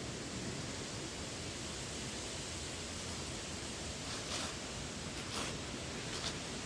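Steady hiss of a light breeze, with a few footsteps crunching dry fallen leaves on a woodland trail, about one a second, in the second half.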